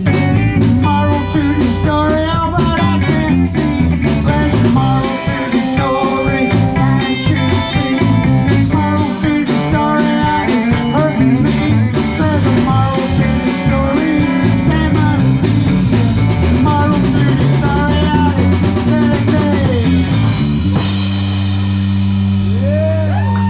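Live rock band playing with drum kit, electric guitar and bass guitar. About three-quarters of the way through, the drums stop and a held chord is left ringing as the song ends.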